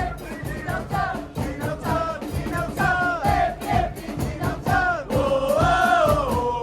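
Football supporters singing a chant together in the stands, one gliding melody carried over a steady drum beat.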